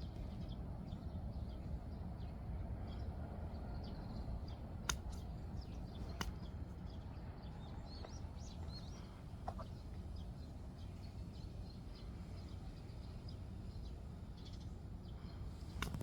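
Steady low background rumble with scattered faint, high bird chirps, and two sharp clicks about five and six seconds in.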